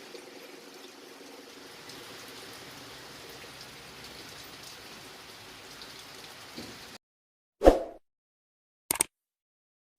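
Steady rain hiss with a faint engine running underneath. About seven seconds in, the sound cuts off to silence, broken by two short sharp hits about a second apart.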